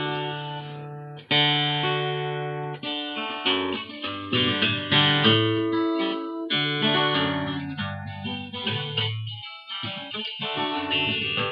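Guitar playing chords without singing, each chord struck and left to ring and fade before the next.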